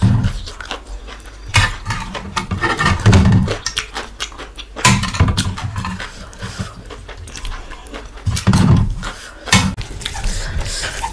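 Close-miked eating sounds: chewing and smacking on a mouthful of rice and chicken curry, in loud bursts every one to three seconds.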